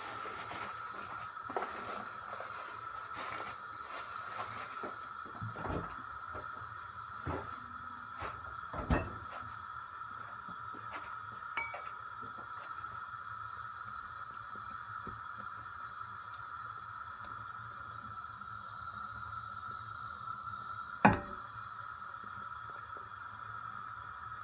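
Kitchen handling sounds while an omelette cooks in a frying pan: scattered light knocks and clinks of utensils and cookware over the first nine seconds, and one sharp knock about 21 seconds in, over a steady high-pitched hum.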